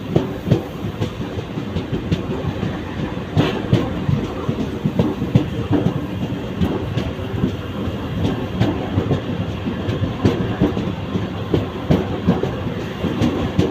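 Mumbai local train, an electric multiple unit, running at speed, its wheels clattering steadily over the rail joints.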